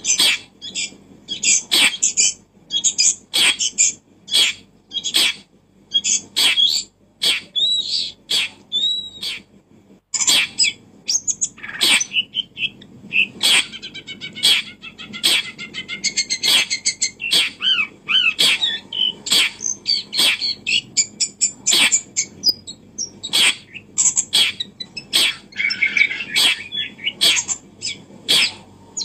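Birds chirping and calling, with many quick sharp clicks and short chirps and a few brief whistled glides.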